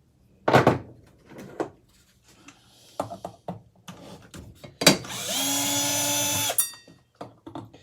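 Handling knocks and clatter of metal fan parts, then a handheld power drill runs for about a second and a half with a steady whine and stops.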